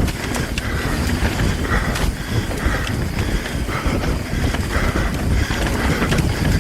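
Mountain bike running fast downhill over a rough dirt and rock trail: a steady low rumble of wind and tyres, broken by frequent knocks and rattles from the bike on the bumps.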